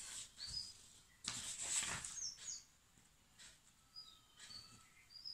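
Small birds giving short, rising chirps several times in the background, with a brief scratchy rustle of paper about a second in.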